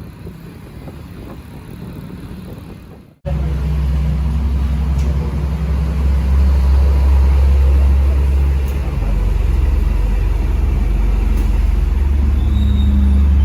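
A motor vehicle's engine running steadily with a loud low hum, starting abruptly about three seconds in after quieter low rumbling.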